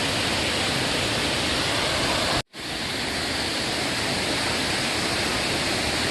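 Steady rush of a waterfall, broken by a split-second gap of silence about two and a half seconds in.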